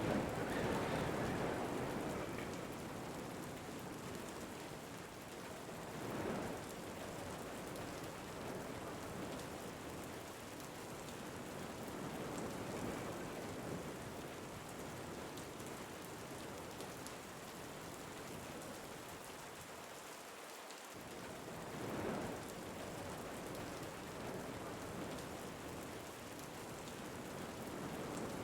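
Steady rain falling with wind, swelling in gusts near the start, about six seconds in and about twenty-two seconds in.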